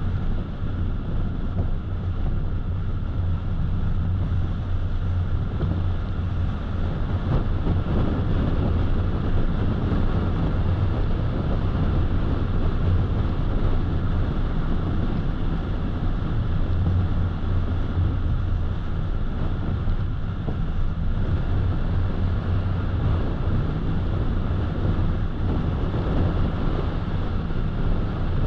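Steady road noise of a car driving: a continuous low hum of tyres on pavement and running engine, unchanging throughout.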